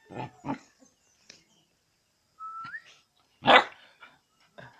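Pet dog barking: two short barks at the start and a much louder bark about three and a half seconds in, with a short rising high tone just before it.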